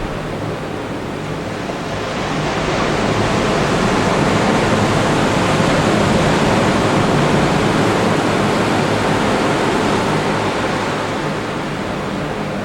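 Atlantic Ocean surf breaking and washing up the beach: a steady rush that swells from about two seconds in and eases off near the end.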